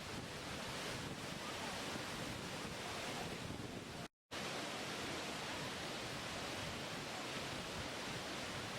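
Steady rushing of falling water, an even noise with no distinct events, broken by a brief moment of total silence about four seconds in.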